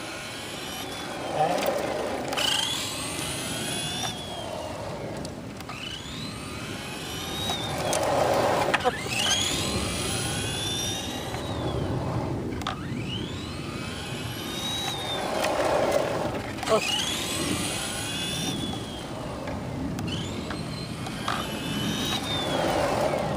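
ECX Torment 2WD RC short course truck's electric motor whining up and down as the throttle is pulled and released. It makes about four fast passes, loudest roughly every seven seconds.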